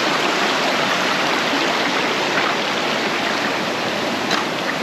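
Steady rush of water from a waterfall stream.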